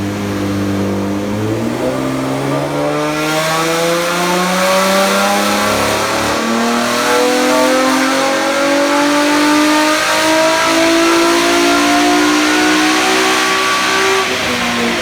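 Modified Holden VF SV6's 3.6-litre LFX V6 with aftermarket cam, full exhaust, intake and tune, running loud and accelerating under load: its note climbs steadily in pitch for about twelve seconds from about a second and a half in, then falls back near the end as the throttle closes.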